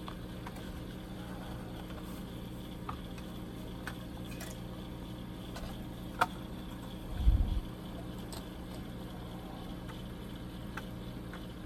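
Small plastic model-kit parts and tools being handled at the workbench: a few faint light clicks, one sharper click about six seconds in and a short dull bump just after, over a steady electrical hum.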